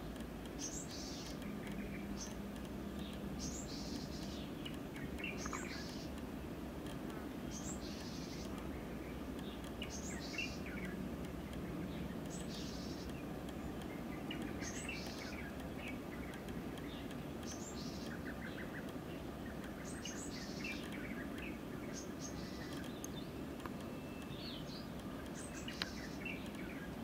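A songbird singing, a short high phrase that falls in pitch, repeated every two to three seconds with softer lower chirps between, over steady low background noise.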